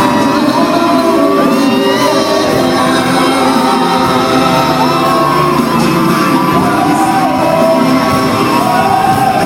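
Live pop concert: amplified music with singing, and a crowd of fans screaming and cheering over it.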